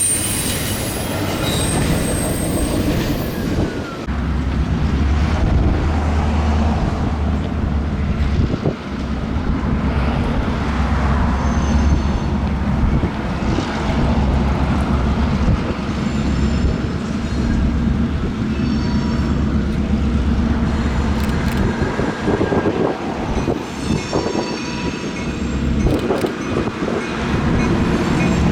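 Freight train rolling past: a steady rumble of rail cars on the track with clanks and rattles, a deep engine hum through much of it, and thin high wheel squeals in the second half.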